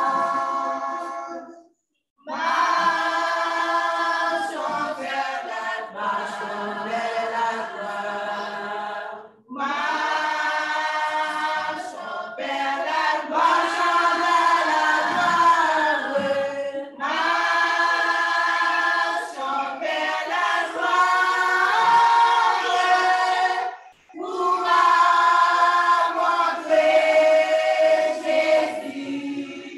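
Choir singing a hymn in several voices, in long held phrases separated by short pauses for breath.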